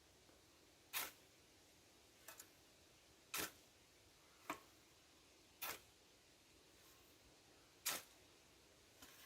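A series of sharp, short clicks at uneven intervals, about seven in all, over a quiet background.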